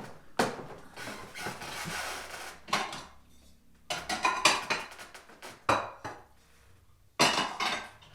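Kitchen dishes and utensils clattering and knocking together in irregular bursts, with a longer stretch of rattling and scraping in the first few seconds and a loud cluster of knocks near the end.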